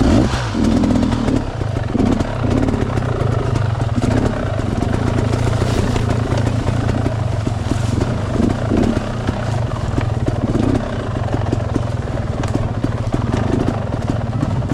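Enduro dirt bike engine running under load, with repeated throttle surges over a steady low engine note and scattered knocks.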